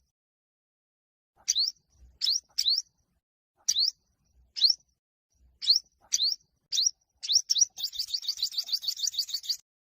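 Olive-backed (yellow-bellied) sunbird singing its fighting song: a series of short, high, rising chirps, then a fast trill of about eight notes a second near the end.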